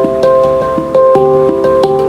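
Handpan melody: notes struck in quick succession, several a second, each ringing on as the next one sounds.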